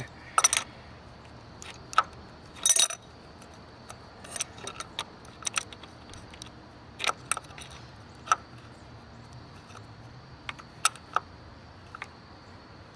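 Adjustable wrench clinking against the PCV valve and engine metal as it is fitted and worked: a dozen or so short, sharp metallic clicks at irregular intervals, with a brief rattle about three seconds in.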